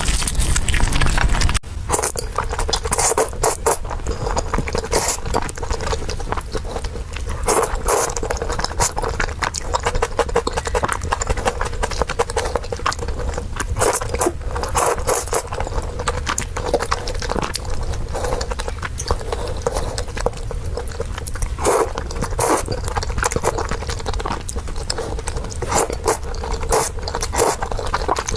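Close-miked eating sounds: rapid chewing with wet mouth smacks and clicks, and the occasional scrape of utensils.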